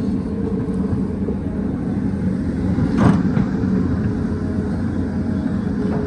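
Excavator's diesel engine running steadily, with a single sharp knock about halfway through.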